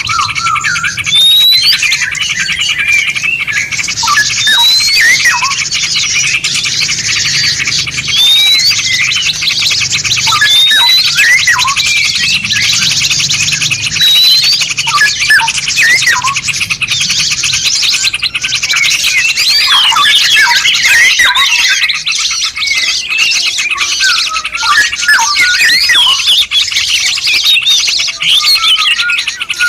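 Several songbirds singing and calling at once: a dense, overlapping mix of short chirps and rising whistles, with a fast buzzing trill running underneath through roughly the first half.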